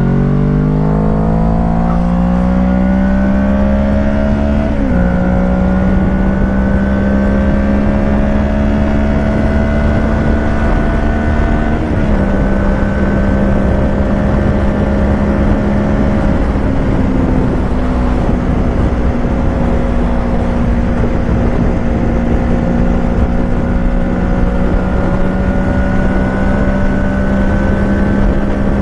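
Kawasaki Ninja 650's parallel-twin engine through a Shark SRC-4 full exhaust system, pulling hard with its pitch rising for about five seconds, then a quick upshift, then cruising at a steady motorway speed. There is a short dip in pitch about twelve seconds in, and steady wind noise underneath throughout.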